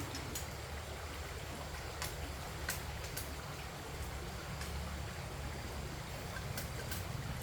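Steady low rushing noise with a few sharp, light clicks scattered through it.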